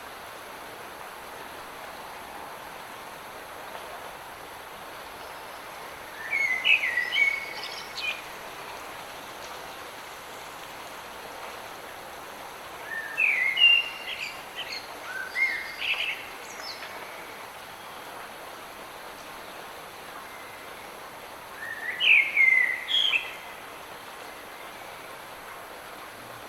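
Light rain falling as a steady hiss, with a songbird singing three short bursts of chirping phrases, about six seconds in, in the middle, and near the end.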